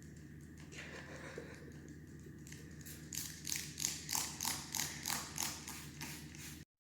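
Hand trigger spray bottle being squeezed over and over. Faint at first, then from about two and a half seconds in a quick run of short hissing squirts, about four a second.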